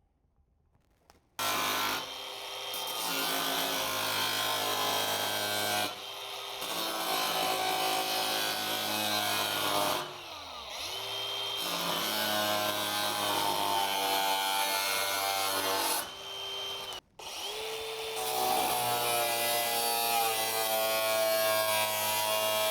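Handheld power tool working sheet metal, starting abruptly about a second and a half in and running loud in long passes with several steady tones that shift in pitch. It breaks off briefly about 6, 10 and 17 seconds in and starts up again.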